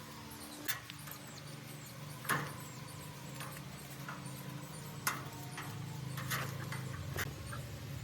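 Workshop handling sounds: scattered sharp knocks and clicks, loudest about two and five seconds in, over a low steady hum that grows louder in the second half, with faint short high squeaks.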